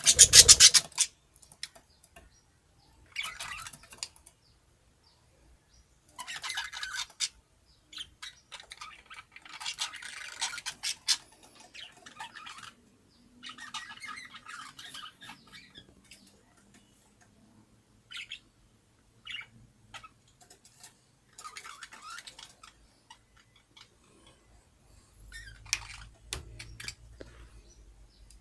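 Baby budgie (budgerigar chick) calling in raspy, squawking bursts of a second or two, repeated with pauses between them; the loudest burst is at the start.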